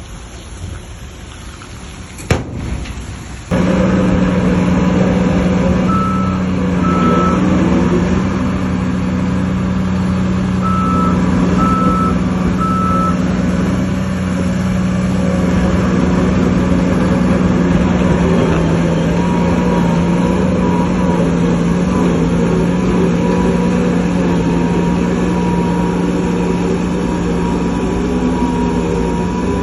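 Heavy diesel earthmoving machinery running steadily, coming in abruptly about three and a half seconds in, with a reversing alarm beeping in short runs of a few beeps. Before that, a hiss of noise with a single sharp click.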